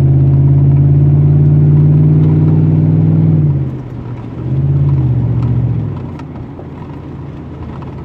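Pickup truck exhaust under acceleration: a loud, steady low drone that drops away about three and a half seconds in, surges again briefly around five seconds, then settles to a quieter rumble.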